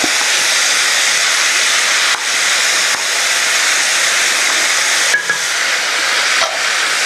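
Chunks of beef with sliced red and green peppers sizzling steadily in oil in a shallow pan as the meat browns, with a few brief dips in the hiss as they are turned.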